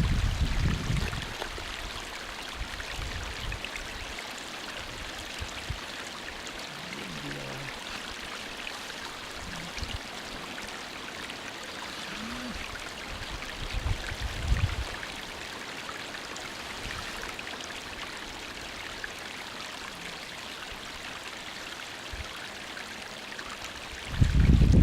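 Small stream of acid mine water running steadily with an even rushing sound, with short low rumbles on the microphone at the start, midway and near the end.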